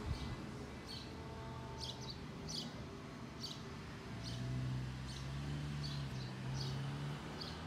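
A small bird chirping repeatedly, a short high chirp a little under once a second, over a low steady background hum.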